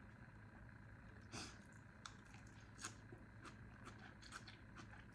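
Faint eating sounds: scattered soft clicks and smacks of chewing chicken pho noodles, over a low steady hum.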